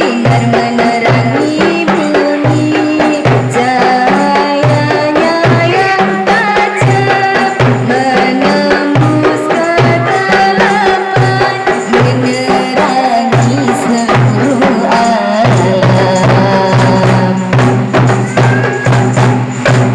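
Qasidah music: a devotional Islamic song performed with percussion over an even, pulsing bass beat, the melody winding up and down.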